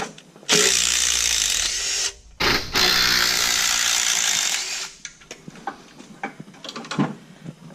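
A power tool run in two steady bursts, the first about a second and a half long and the second about two and a half, followed by light clicks and taps of hand tools on engine parts.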